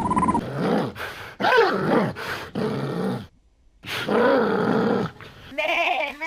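An animal calling several times in pitched, bending calls, with one longer call near the middle. Near the end a goat starts bleating with a wavering, quavering tone.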